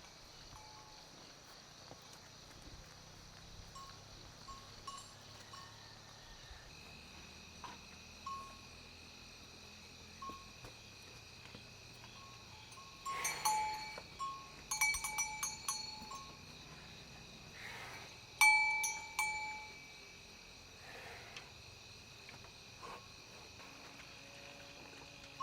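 A livestock bell clanking in two short bouts over a steady drone of insects.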